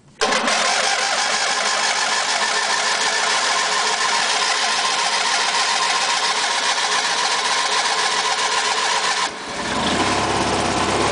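The electric starter on a 1991 MTD 18-horsepower lawn tractor cranks the engine steadily for about nine seconds. Then the engine catches and begins to run near the end. It is a hard start on two-year-old gas after half a year of sitting.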